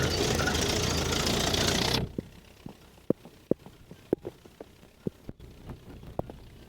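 GAZ-69A jeep on the move: a loud rush of engine and wind noise for about two seconds that cuts off suddenly, followed by scattered sharp knocks and rattles over a faint low rumble.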